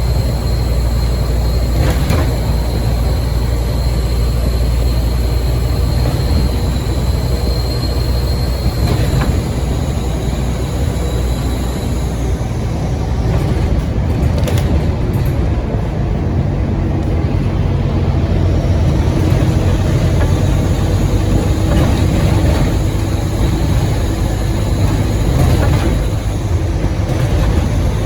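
Scania OmniCity double-decker bus under way, heard from inside: a steady low engine drone and road rumble. A high, thin turbocharger whistle runs over it for the first several seconds and fades out about ten seconds in. A few sharp knocks are spread through it.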